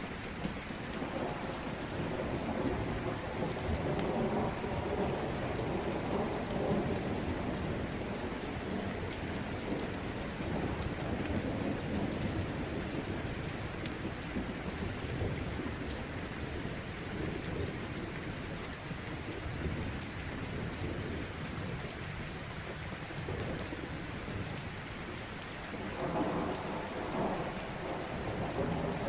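Steady rain falling, with rolling thunder rumbling low underneath. The thunder swells about a second in, eases off past the middle, and builds again near the end.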